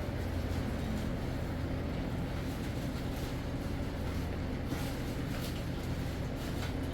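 A steady low mechanical hum, like an engine or motor running, with a few faint clicks.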